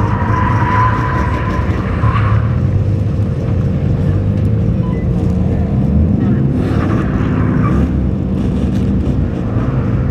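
BMW 328is straight-six engine running under throttle, heard from inside the cabin, with three short patches of higher hiss over the steady engine sound. The car is not breaking loose into a drift because its traction control is still on.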